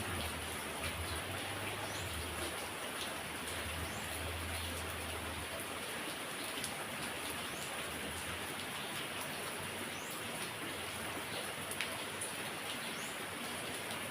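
Heavy rain falling steadily in an even hiss. A low rumble underneath dies away about five seconds in, and a few faint short high chirps recur every second or two.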